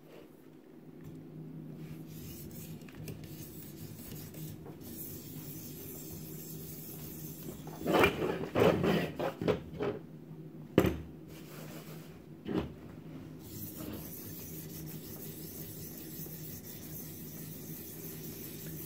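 A sharpening stone on a guided knife sharpener rubbing along a steel knife edge, reprofiling the edge to a new angle. It is quiet at first, with a run of louder grinding strokes about halfway through, followed by a sharp click.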